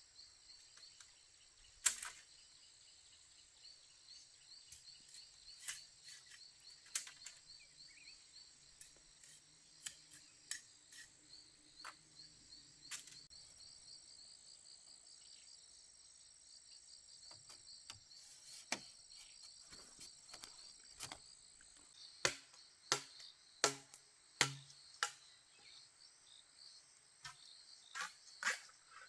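Insects keep up a steady high, finely pulsing chorus. Scattered sharp clicks and knocks cut across it, with a quicker run of louder knocks about three-quarters of the way through.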